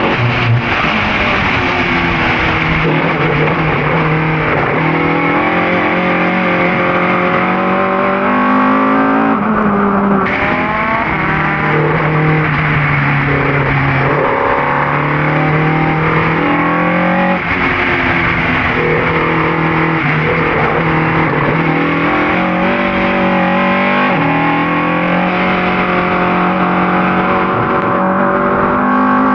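Ford Cortina race car's engine running hard on track, its revs climbing and dropping every few seconds through gear changes.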